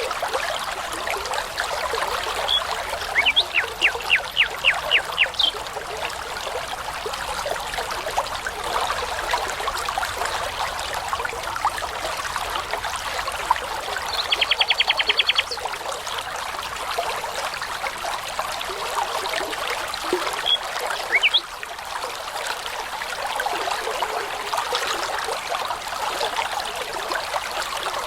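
A brook babbling steadily, with a songbird singing in separate phrases over it: a run of about eight repeated notes a few seconds in, a fast trill around the middle, and a few rising whistled notes later on.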